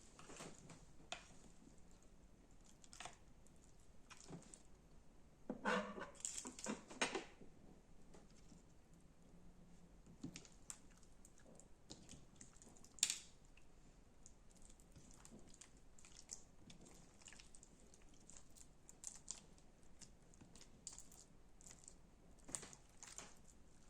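Slime being squeezed and pressed by hand: soft scattered clicks and crackles. A denser crackly stretch comes about six seconds in, and a sharp click near thirteen seconds.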